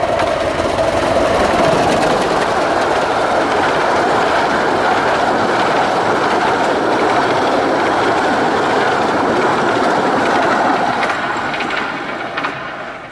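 A 15-inch gauge miniature railway train running by, a loud, steady rumble of wheels on rails that fades away from about eleven seconds in.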